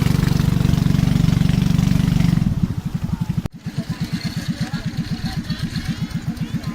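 A small engine running steadily, then throttled down about two and a half seconds in to a slow, even chugging idle.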